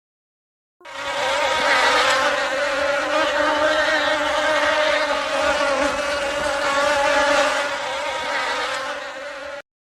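A steady insect buzz, a droning hum that wavers slightly in pitch, starting about a second in and cutting off just before the end.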